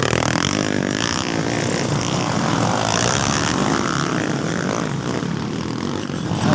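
Motocross motorcycles racing, several engines running together in a steady, dense drone.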